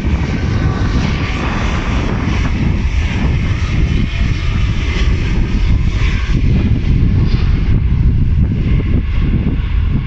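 Airliner jet engines running past, a loud steady low rumble with a faint high whine that fades out about halfway through.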